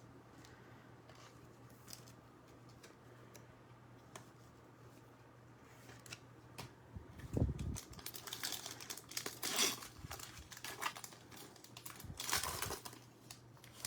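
A thump about seven seconds in, then a trading-card pack's wrapper being torn open and crinkled for several seconds.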